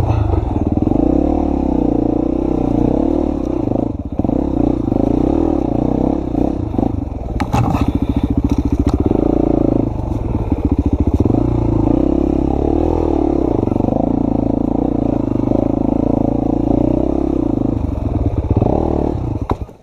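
Honda XR250's four-stroke single-cylinder dirt-bike engine running under load, its revs rising and falling. A few sharp clattering knocks come about seven to nine seconds in.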